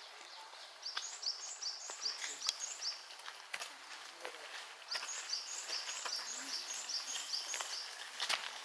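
A songbird singing rapid runs of identical short, high notes, about five a second. One run comes about a second in and a longer one about five seconds in, over faint outdoor background noise.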